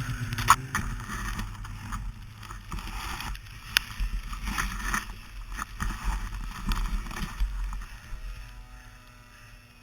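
Sliding over snow: scraping noise broken by short clicks and clatters, with wind rumbling on the microphone, dying down about eight seconds in.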